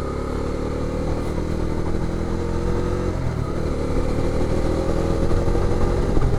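Bajaj Dominar 250's single-cylinder engine running on the move, its revs and loudness rising gradually.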